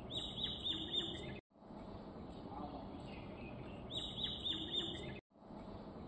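A small bird chirping: a quick run of about six high, arched notes, then a second run about four seconds later, over steady outdoor background noise. The sound drops out completely for a moment twice.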